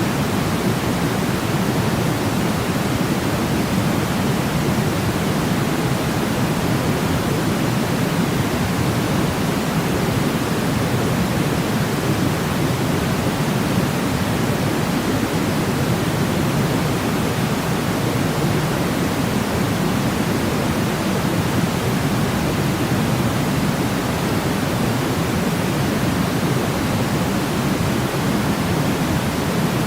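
Steady white noise for baby sleep: an unbroken, even rushing hiss, deeper than pure white noise, with most of its weight low down.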